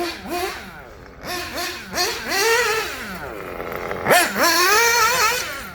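1/8-scale nitro buggy's two-stroke glow engine with a Dynamite 053 tuned pipe, revving up and down in bursts as it is driven. Its pitch rises and falls repeatedly, with a sharp drop and fast climb about four seconds in.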